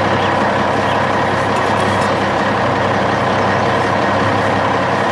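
Dump truck engine sound effect, a heavy diesel running steadily as the truck drives along.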